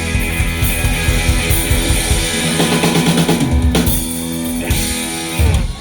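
Live band playing the instrumental close of a Christmas pop song, with drum kit and guitar. Rapid drum strokes run through it, with loud accented hits about two-thirds of the way in and just before the end, where the song stops.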